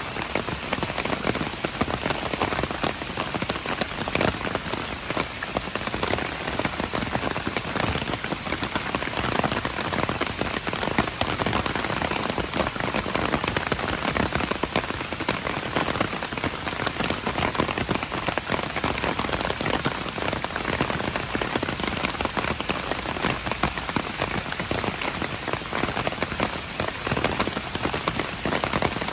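Steady rain falling: an even hiss made of countless small drop ticks, with no change in strength.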